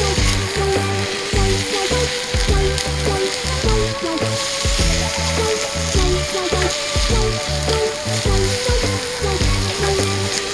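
Food sizzling steadily in a frying pan, with background music playing over it.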